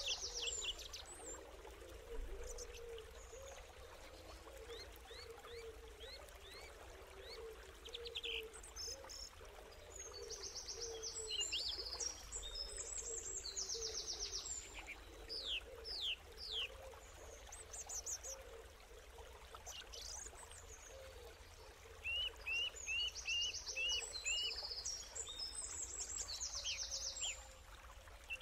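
Small birds singing: bursts of high, quick chirps and buzzy trills come and go, with a run of short rapid chirps in the second half, over a faint steady background hum.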